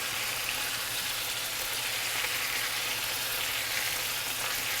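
Boneless chicken thighs sizzling steadily in hot olive oil in a skillet.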